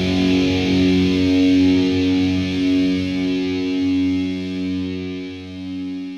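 Black metal demo recording: distorted electric guitar holding long, ringing chords, the band thinning out about four seconds in and the music fading down near the end.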